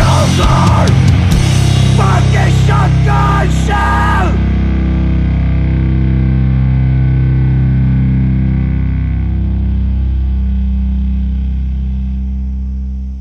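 Sludge metal: heavily distorted guitars and drums with a harsh voice over them for the first four seconds or so, then a low distorted chord rings out and slowly dies away, fading out at the end.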